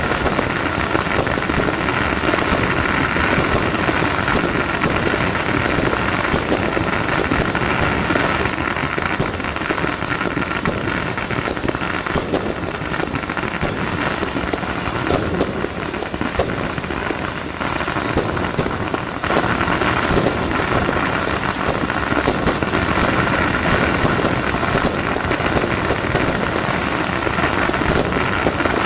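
Fireworks and firecrackers crackling densely and without pause, a constant rapid patter of small pops.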